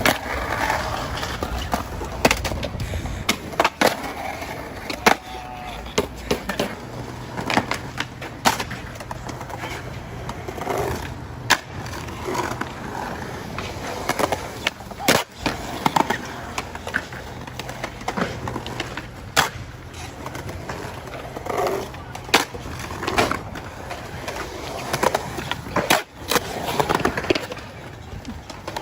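Skateboards rolling on pavement, with many sharp pops, clacks and board landings, one every second or two.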